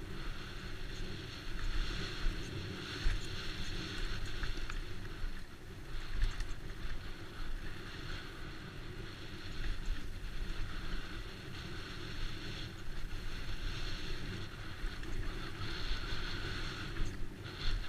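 Wind rushing over the microphone and tyres rolling on a dirt trail as a Trek Slash full-suspension mountain bike descends at speed, with a few sharp knocks as the bike hits bumps.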